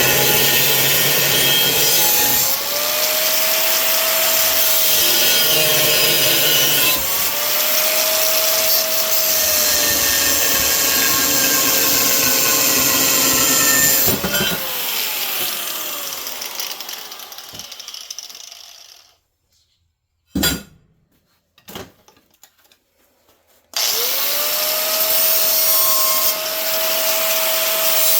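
Angle grinder grinding steel, its motor tone sagging and recovering as it is pressed into the work. About fourteen seconds in it is switched off and winds down, and after a few seconds of near silence with two short clicks it is started again and spins back up.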